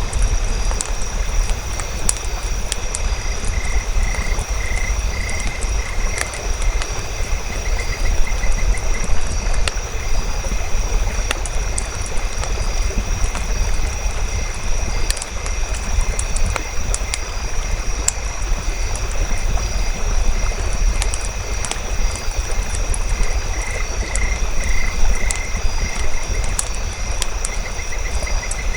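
Campfire crackling, with irregular sharp pops over a steady low rumble and a thin steady high-pitched drone. A rapid pulsing trill call comes twice, a few seconds in and again near the end.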